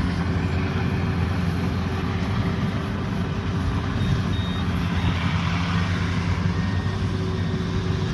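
Combine harvester's diesel engine running steadily under load, with its steady machinery hum; a few short high beeps sound about four seconds in.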